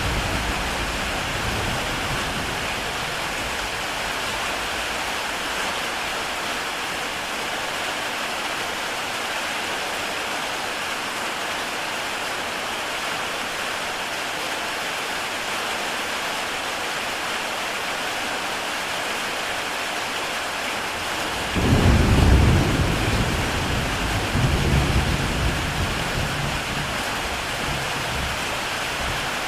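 Heavy rain falling steadily on a tile roof. About two-thirds of the way in a low rumble of thunder breaks in suddenly, swells a second time and dies away.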